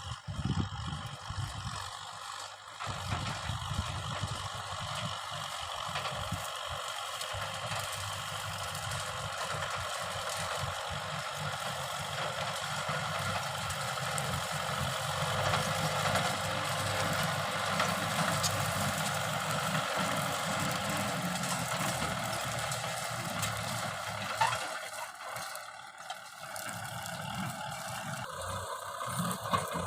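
Kubota M6040 tractor's diesel engine running steadily, with a rough mechanical rattle.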